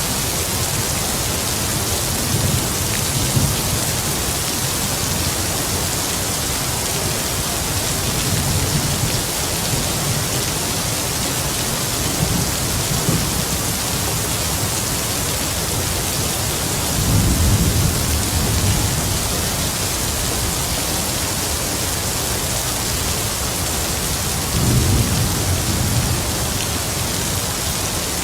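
Heavy rain falling steadily, with distant thunder rumbling low several times, loudest about two-thirds of the way through and again near the end.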